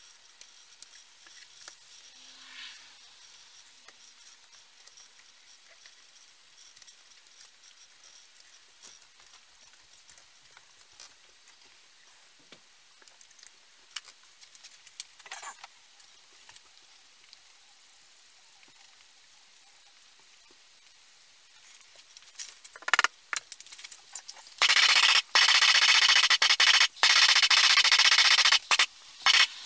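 Faint scattered clicks of handling, then near the end a loud hiss of spraying air or liquid in several bursts with short breaks between them.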